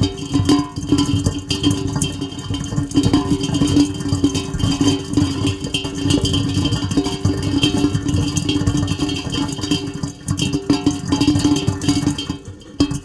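Heavy rain, a dense patter of drops, with steady humming tones underneath; it eases briefly near the end.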